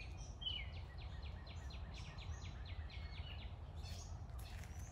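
A small bird singing a run of quick, evenly repeated high notes, about four a second for some three seconds, over a faint low rumble.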